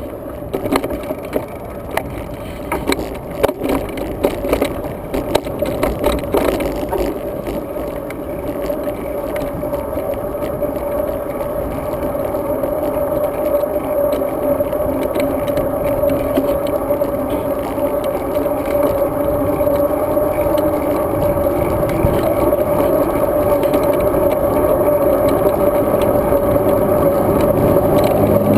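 Road bicycle ridden, heard from the bike: rattling and clicking over bumps for the first several seconds, then a steady hum that slowly grows louder.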